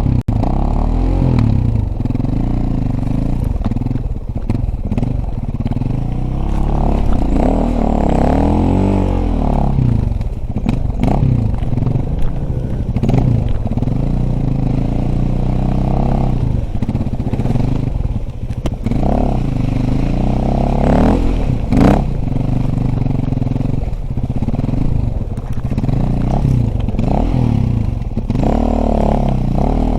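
Dirt bike engine being ridden, its pitch rising and falling again and again as the throttle is opened and closed, with occasional clattering knocks.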